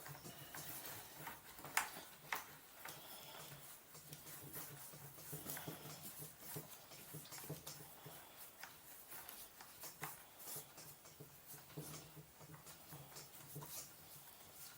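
Faint, scattered clicks, taps and light scrapes of mountainboard truck parts and hand tools being handled, a couple of sharper clicks about two seconds in, over a low steady hum.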